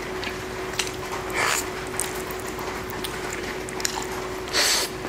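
Close-miked mukbang eating sounds: wet chewing and mouth noises, with two short louder slurps or smacks about a second and a half in and near the end. Steady rain hiss runs underneath.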